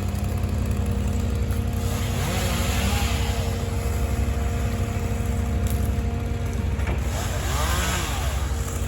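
Truck engine running steadily with a low drone, while a chainsaw revs up and back down twice, about two seconds in and near the end.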